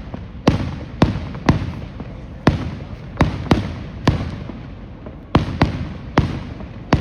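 Fireworks going off: a string of about eleven sharp bangs at uneven intervals, each trailing off in a short echoing rumble.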